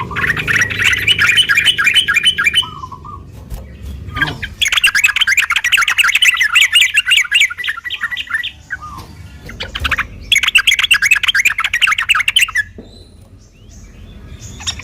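Yellow-vented bulbul (trucukan) singing its fast chattering song in three long bouts of rapid repeated notes, each a few seconds long, with short pauses between.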